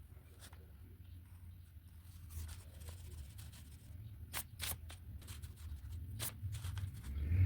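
Drawing pen on paper: faint strokes and a few sharp clicks, the loudest a couple of seconds before the end, over a low steady hum.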